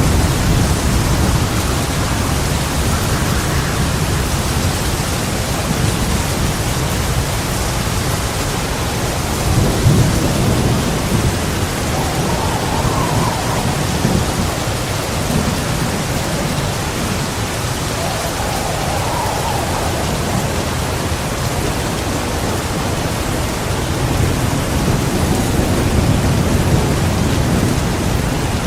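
Heavy rain falling steadily with rolling thunder: low rumbles swell about ten seconds in and again near the end.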